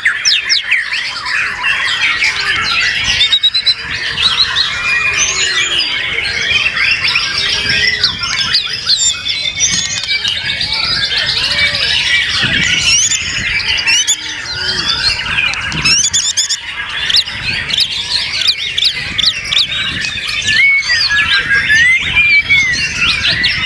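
White-rumped shamas (murai batu) singing over one another in a dense, continuous chorus of whistled phrases, fast chatter and rapid trills.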